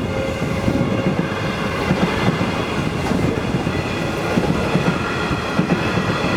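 Suburban electric train passing through a level crossing, a steady rumble with wheels clattering over the rails, and a steady high ringing tone running over it.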